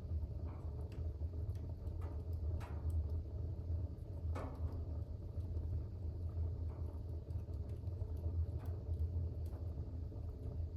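Fire burning in a fireplace: a steady low rumble with scattered crackles and pops, the loudest about four seconds in.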